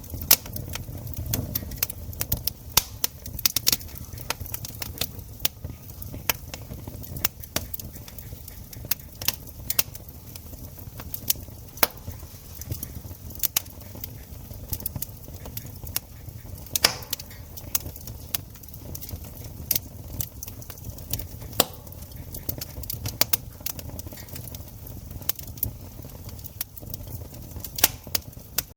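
Campfire crackling: irregular sharp snaps and pops, several a second, over a low, steady rumble.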